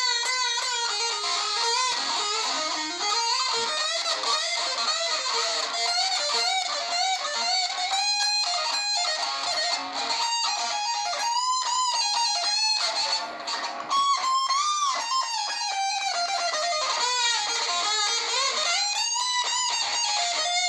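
Distorted electric guitar playing a single-note lead solo, with string bends and vibrato on held notes. The playing stops right at the end.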